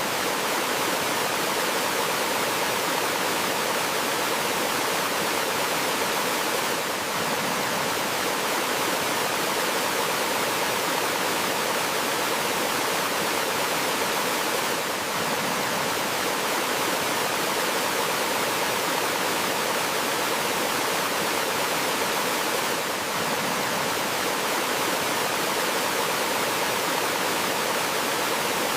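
Gentle waterfall, water flowing and splashing steadily with an even rush, dipping very slightly in level about every eight seconds.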